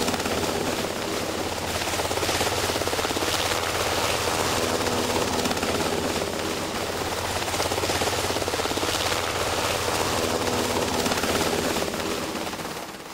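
Helicopter in flight, a steady rotor and engine noise with a fast pulsing chop, fading away near the end.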